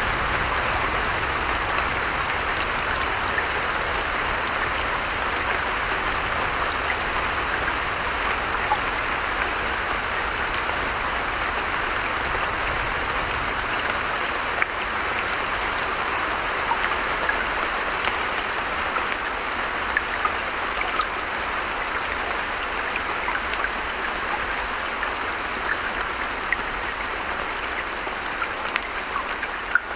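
Steady rain falling, with scattered sharp drop hits ticking close by.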